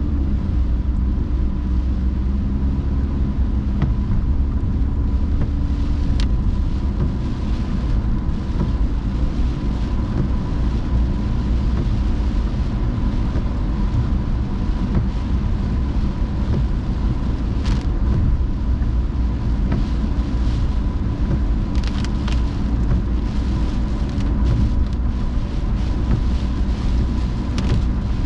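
A car driving on wet roads in the rain: a steady, heavy low rumble of road and engine noise, with a faint steady high whine and scattered sharp ticks, several together about 22 seconds in.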